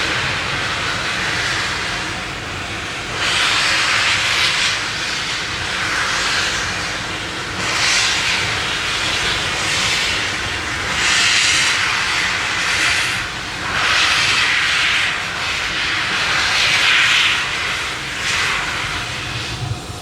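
Steam locomotive working slowly, giving loud blasts of steam hiss about every two seconds over a low rumble.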